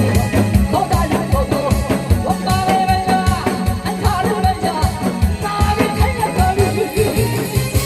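Live singing of a Korean song over a loud backing track with a steady drum beat; the melody is held in long, wavering notes.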